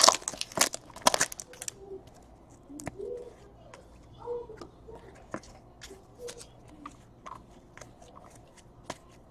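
Trading-card pack wrapper crinkling for about the first second and a half, then scattered soft clicks and taps as the cards are handled.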